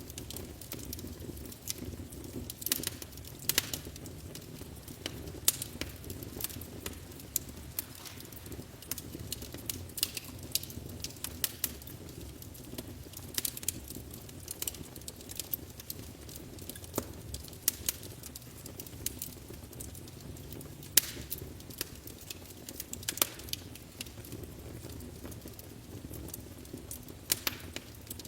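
Wood fire burning in a fireplace: a steady low rush of flames with irregular sharp crackles and pops, several a second.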